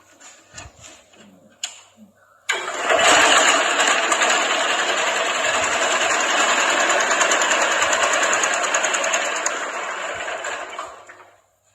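A single-cylinder 16 hp cast-iron Briggs & Stratton engine on a 1976 Simplicity garden tractor starts suddenly about two and a half seconds in. It runs loud and steady for about eight seconds, then dies away near the end.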